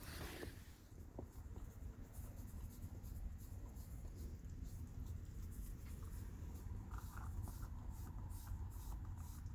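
A dog licking whipped cream out of a small cup: faint, quick, irregular licks and scrapes against the cup.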